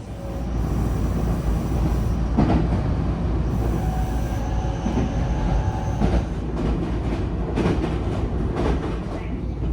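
Train running on rails: a loud, steady rumble that swells at the start, with wheels clacking over rail joints several times and a faint whine for a couple of seconds in the middle.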